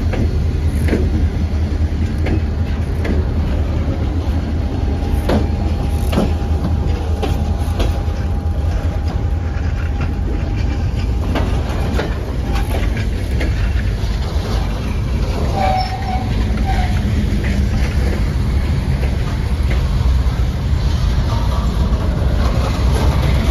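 Mostly empty freight cars of a passing train rolling by close at hand: a steady rumble of steel wheels on rail, with sharp clicks as the wheels cross rail joints. A thin steady squeal runs for several seconds, starting a few seconds in.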